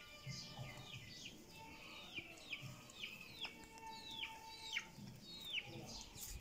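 A bird chirping over and over, short calls that slide downward in pitch, about two a second.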